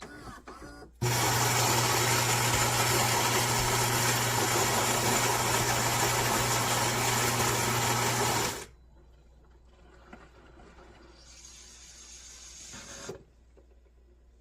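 Philips 3200 Series espresso machine's ceramic grinder grinding beans, a loud steady motor run of about seven seconds that stops abruptly. A softer hiss follows a couple of seconds later.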